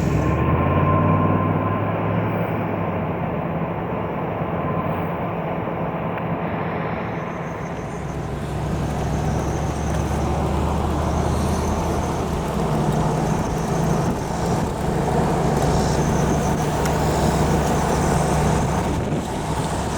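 Cadillac Allante's Northstar 4.6-litre V8 running as the car is driven, with road noise. The engine note shifts in pitch a few times.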